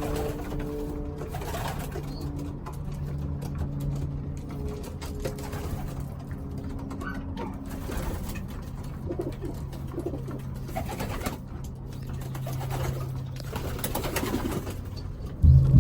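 Racing pigeons cooing in their loft, a low steady murmur from several birds with scattered light clicks. Loud music cuts in abruptly just before the end.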